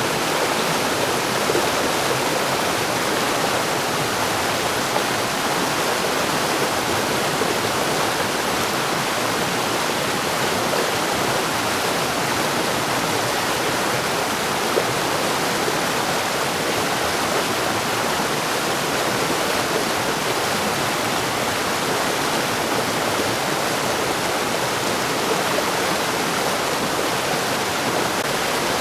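Mountain stream rushing and splashing over rocks, a steady, unbroken wash of water noise.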